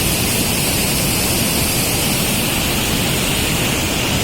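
Loud, steady rush of water flowing out of a dam.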